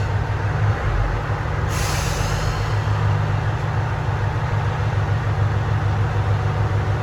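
Diesel railcar idling with a steady low rumble; about two seconds in, a sudden hiss of air from the air brakes, fading over about a second.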